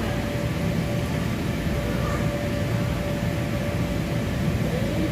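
Steady roar of the electric blower fans that keep the inflatable slides up, with a constant hum.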